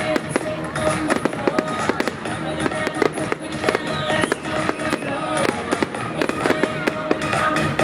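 Fireworks going off in rapid succession, a dense stream of bangs and crackles, over music.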